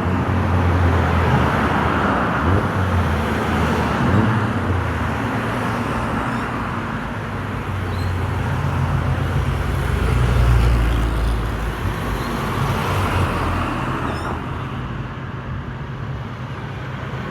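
Old cars driving past in a steady stream, engines running with road noise, swelling loudest about ten seconds in as one passes close.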